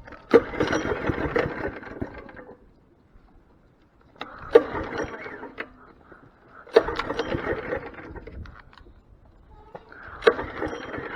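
Mini bike's small engine being started. It fires and runs for a second or two, then dies, three times over. Near the end it catches and keeps running.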